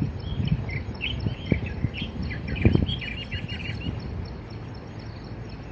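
A small wild songbird, the one known locally as the klik-klik bird, singing a quick run of short chirps that thins out after about four seconds. Behind it a steady high insect drone, and low bumps and rumble from wind or handling, loudest near the middle.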